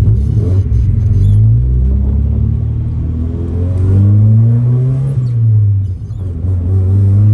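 1990 Mazda Miata drift car's engine heard from inside the car, accelerating: its pitch climbs from about a second in, drops about five seconds in, then climbs again near the end.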